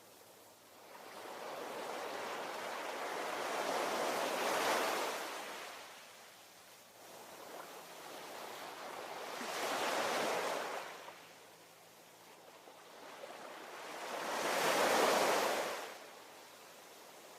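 Ocean waves breaking on the shore: three waves swell and crash, about five seconds apart, each followed by a quieter wash between.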